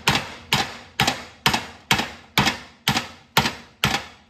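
Brass hammer striking the end of a mower-deck spindle shaft clamped in a vise: about nine steady, even blows, roughly two a second, each a sharp metallic knock with a short ring. The blows are driving the shaft out of its pressed-in bearings.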